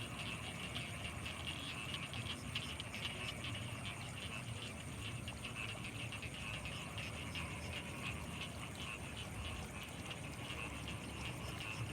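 Dense night chorus of frogs calling continuously, many overlapping calls at once, with a steady high thin tone above them and a low rumble beneath.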